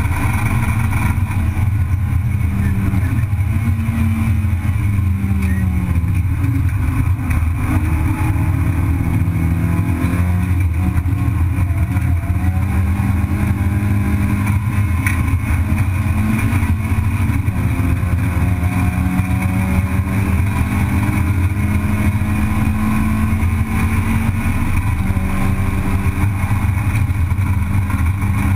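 Race car engine heard from inside the cabin, running hard under a heavy low rumble. Its revs climb and drop several times.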